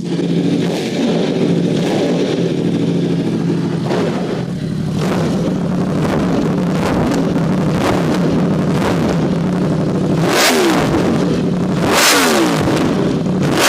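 Yamaha R1M's crossplane inline-four running through a full titanium MT Race exhaust, at a fast idle while still warming from a cold start. It is revved in a series of throttle blips, each falling back to idle, the sharpest two about two-thirds of the way through and near the end.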